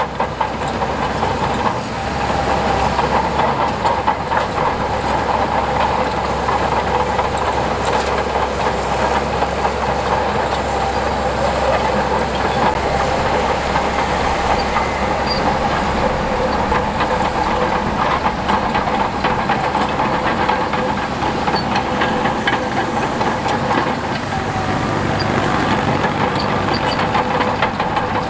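Crawler bulldozer working: its diesel engine runs steadily under load over a constant metallic clatter from the steel tracks, with a steady whine.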